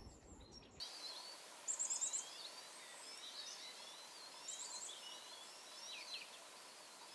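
Faint birdsong over a steady outdoor hiss: several small birds chirping and twittering, with two short, rapid, very high trills about two seconds and about four and a half seconds in.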